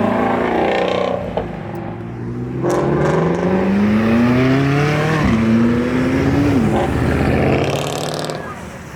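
Fully built DSM (Mitsubishi/Eagle turbo four-cylinder) accelerating hard away from the meet. The engine note climbs, drops at a gear change about five seconds in, climbs again, then cuts back near seven seconds in as it pulls away and fades.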